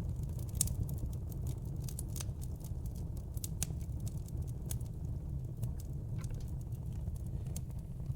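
Wood fire burning in a fireplace: logs crackling with frequent, irregular sharp pops over a steady low rumble of the flames.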